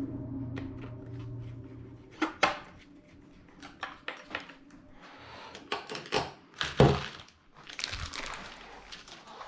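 Small metal tools and parts clicking and clattering as they are picked up and handled, with a rustle near the end. A steady hum in the background fades out about two seconds in.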